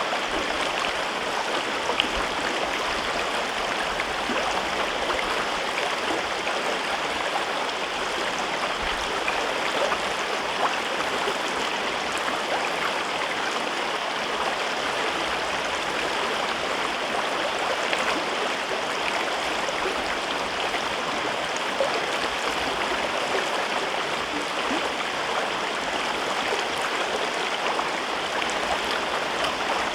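A mountain river flowing and babbling over rocks in a gorge, a steady rushing with small splashes here and there.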